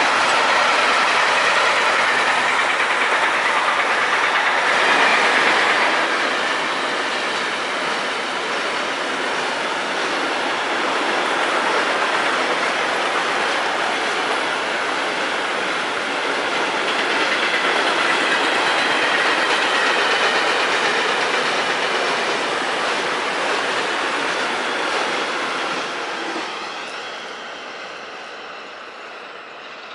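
Long intermodal freight train of container and trailer wagons rolling past, a steady noise of wheels on rail with clickety-clack over the joints, fading away near the end as the last wagons pull off.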